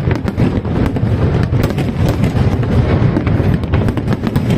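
Fireworks going off continuously: a dense low rumble of booms with many sharp cracks on top.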